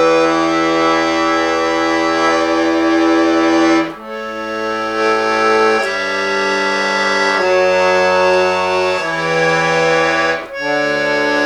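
Bayan (Russian button accordion) playing held chords over a bass line. The chords change every second or two, with short breaks about four seconds in and again near the end.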